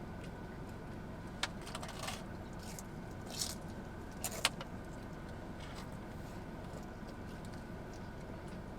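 Steady low background hum with a few faint clicks and rustles, mostly in the first half, from food being handled and eaten.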